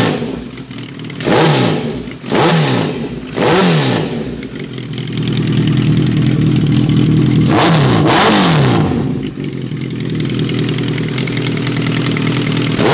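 2005 Kawasaki ZRX1200R's inline-four engine, breathing through Yoshimura TMR-MJN flatslide carbs and a Kerker exhaust, being blipped: three quick revs about a second apart, then a longer rev held for a few seconds that falls back to idle, and one more blip near the end. The engine is freshly rebuilt and warming up just after its first start.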